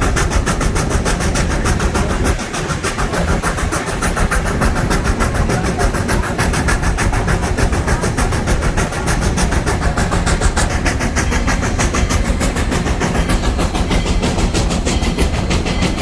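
Steam train running: a loud, steady rumble with a fast, even pulse.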